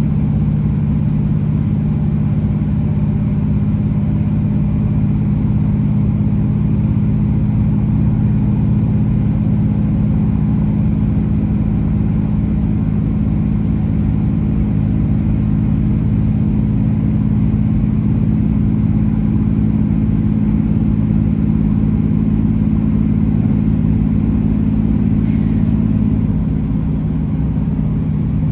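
Class 165 Networker Turbo diesel multiple unit running between stations: its underfloor Perkins diesel engines give a steady low drone over running rumble. Near the end the engine note eases and drops a little in level.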